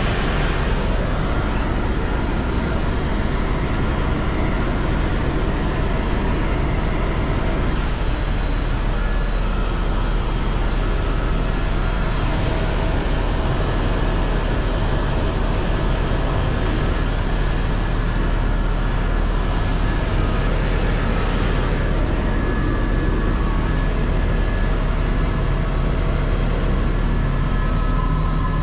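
Helicopter engine and rotor noise heard inside the cabin, a loud, steady drone with a heavy low rumble and faint whining tones.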